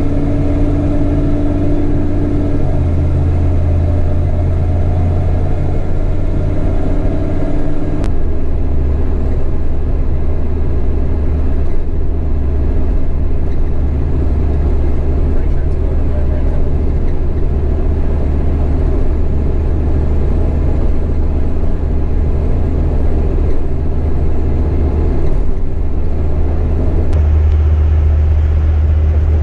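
Small-block Chevy 350 V8 in a 1999 Isuzu NPR cabover truck running while the truck drives along: a steady low engine drone with road noise. The drone shifts in pitch a few times, about three seconds in, about eight seconds in and near the end.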